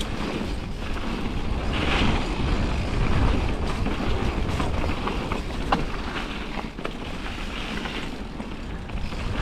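Riding noise from a Radon Swoop mountain bike descending a rain-soaked trail: wind rushing over the camera microphone and tyres rolling on wet ground, with a few sharp clicks from the bike over bumps.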